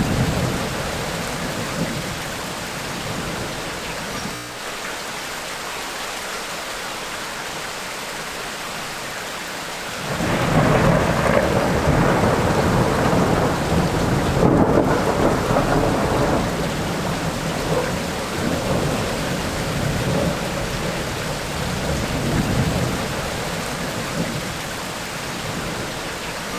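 Heavy rain falling steadily in a thunderstorm. About ten seconds in a long roll of thunder breaks out and rumbles on for several seconds, slowly dying away.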